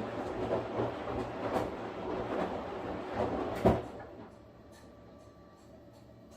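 Washing machine running: the drum turning and churning laundry, with irregular knocks and a steady low hum. A loud thump comes about three and a half seconds in, then the churning stops, leaving faint ticks and clicks.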